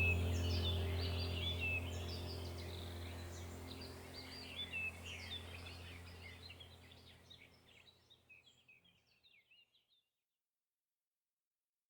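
Birds chirping and singing over a low, steady ambient music drone. Both fade out gradually and are gone about eight seconds in, leaving silence.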